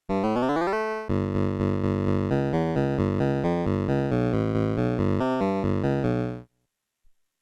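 Casio VL-Tone (VL-1) mini keyboard sounding synthesized notes: a quick rising run in the first second, then a fast sequence of notes that cuts off suddenly about six and a half seconds in. A faint click follows.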